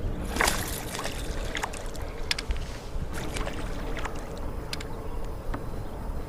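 Water splashing and lapping around a kayak, with scattered light clicks and knocks, a louder splash about half a second in, and a low steady rumble underneath.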